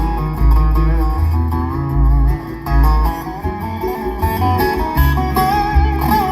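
Live bluegrass band playing an instrumental passage between sung lines: plucked acoustic strings over a bass line that moves note by note, with a lead line of sliding, bending notes near the end.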